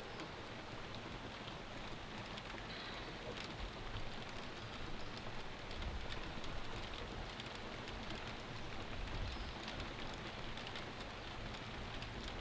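Steady rain falling, with scattered raindrops ticking close by.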